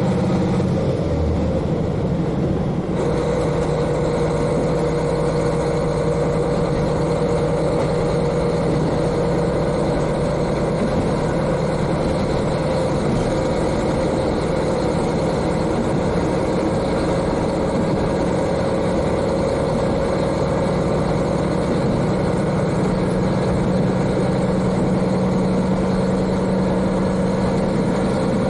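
The N-DMF13HZI turbocharged six-cylinder diesel engine of a KiHa 40 railcar, heard from directly above it, running steadily on the move. Its note changes about three seconds in and then holds steady.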